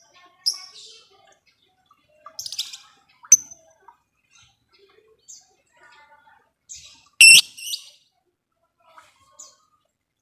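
Lovebird calling: scattered shrill, sharp chirps and short scratchy chatter, with the loudest call about seven seconds in.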